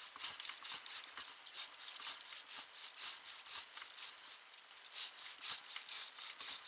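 Repeated scratchy rubbing strokes, about two to three a second, uneven in rhythm.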